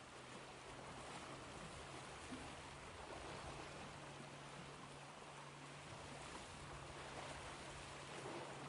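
Ocean waves washing in a soft, fairly even hiss of surf that swells slightly now and then. A steady low hum runs underneath.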